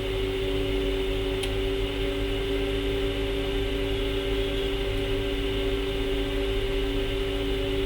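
A small electric motor or blower on the repair bench runs with a steady hum and a low mains buzz under it. There is a single light click about a second and a half in.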